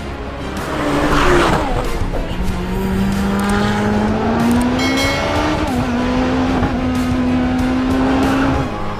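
High-revving car engine, its note held and then climbing in pitch around the middle before dropping back, with a rush of tire noise about a second in. Background music plays underneath.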